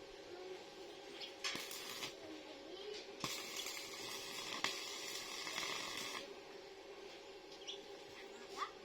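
Welding arc crackling and hissing in two spells that start and stop abruptly: a short one about a second and a half in, then a longer one of about three seconds.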